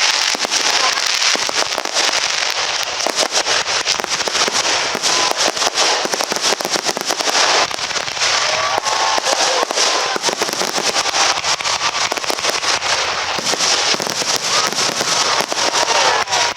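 Aerial fireworks going off in a rapid, unbroken barrage of bangs and crackling, many bursts a second overlapping with one another.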